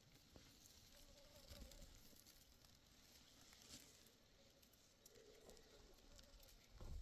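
Near silence: faint outdoor ambience with a few soft ticks and two faint, brief wavering tones.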